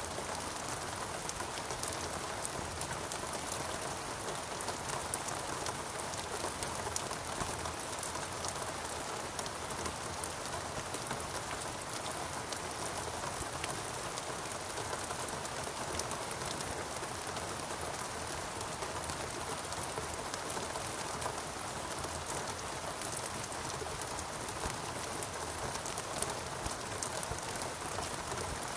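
Steady rain falling, a continuous hiss with many individual drops ticking sharply on top.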